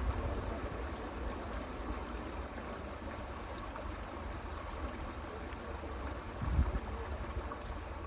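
Creek water flowing steadily, with a low rumble underneath and a brief louder low bump about six and a half seconds in.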